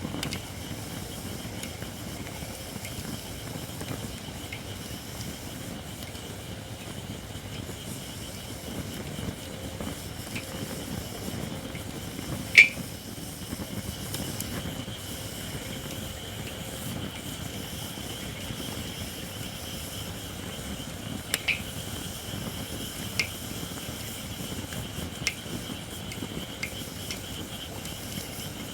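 Campfire of Japanese white oak (shirakashi) logs burning with a steady low rush and a thin steady hiss from the not-yet-dry wood. A few sharp crackling pops, the loudest about twelve seconds in and several smaller ones later.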